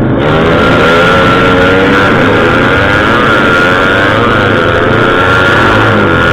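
Motorcycle engine running loudly, its pitch rising and falling as it is revved.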